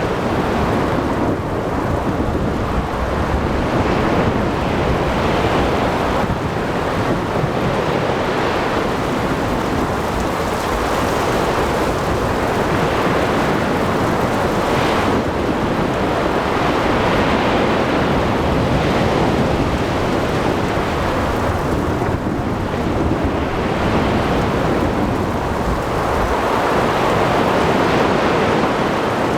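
Storm at sea: steady rain and wind with waves washing, under rumbling thunder that swells and fades every few seconds.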